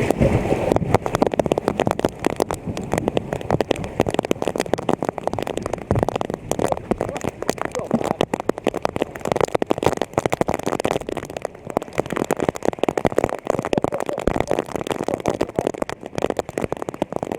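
Water splashing and sloshing, a dense irregular crackle of splashes.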